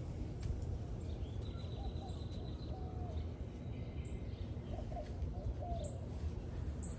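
Birds calling in the background: a high trill about a second and a half in, and two groups of short, low, wavering calls around two and five seconds in, over a steady low rumble.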